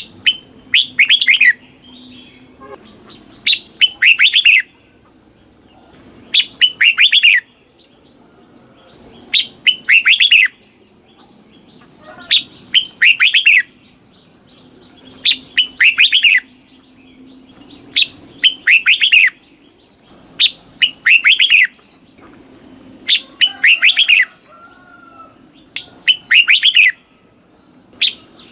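Red-whiskered bulbul singing: a short, bright warbled phrase of about a second, repeated roughly every three seconds.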